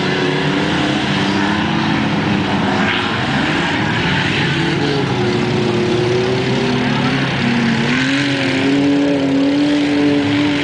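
Engines of several junk cars racing together on a muddy dirt track, running and revving. One engine's pitch climbs about halfway through and again later.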